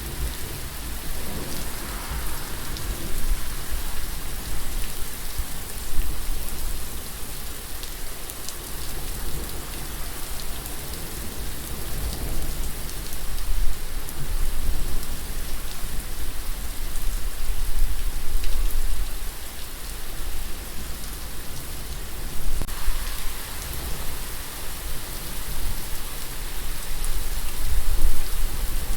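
Heavy rain falling steadily on a surface, with a low rumble underneath that swells and fades several times.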